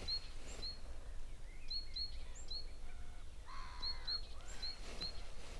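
Small birds calling: short high chirps repeated over and over, over a faint low steady rumble.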